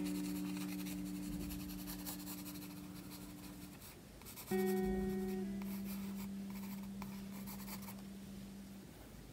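HB graphite pencil shading on sketchbook paper, a soft steady scratching of light strokes. Under it, gentle background music: a held chord fades out, and a new one is struck about four and a half seconds in and slowly dies away.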